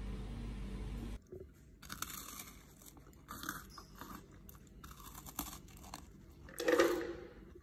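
A steady oven hum that cuts off about a second in, then irregular crunching of toasted garlic bread being bitten and chewed, with a louder, lower sound near the end.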